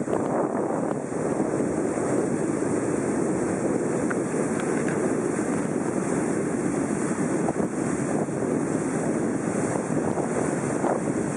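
Steady rush of wind on the microphone and water noise from the deck of a small passenger boat under way, with the boat's engine running underneath.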